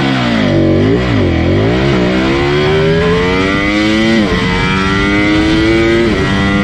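Sport motorcycle engine under hard acceleration. The pitch falls and rises again in the first two seconds, then climbs steadily, with a gearshift dropping it about four seconds in and again near the end.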